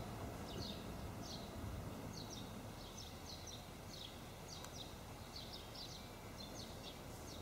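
Faint birdsong: a bird's short, high chirps repeating every fraction of a second over quiet outdoor background noise.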